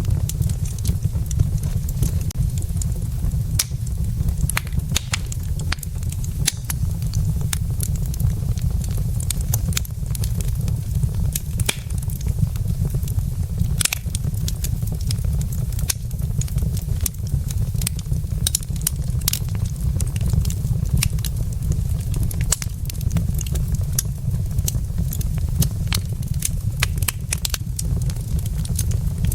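Wood fire burning in a fireplace, crackling with many quick, irregular pops and snaps over a steady low rumble.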